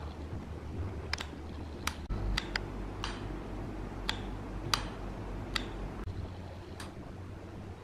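Irregular light clicks and taps, about ten of them spread unevenly, over a steady low hum.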